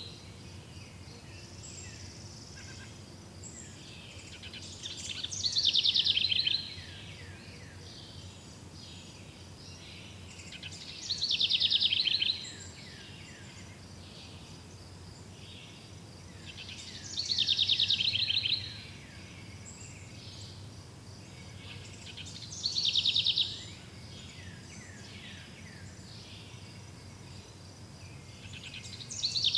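A bird repeating a rapid, high trill about every five or six seconds, each trill about a second long and falling in pitch. A steady high insect drone runs underneath.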